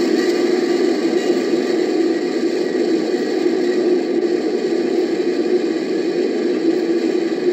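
Vinyl playback of a 1957 field recording of a Norfolk and Western passenger train hauled by a Class J steam locomotive, passing in a steady, even rushing rumble.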